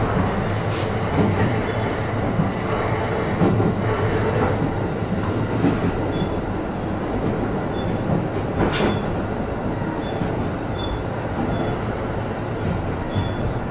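Interior running noise of an E531 series electric train nearing its terminal stop: a steady rumble of wheels on rail, with one sharp click about nine seconds in and a few faint high squeaks in the second half.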